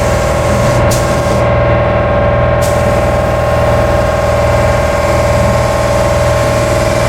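Automotive paint spray gun hissing: two short trigger pulls, then held on from about two and a half seconds in as a paint pass is laid down, over a steady hum.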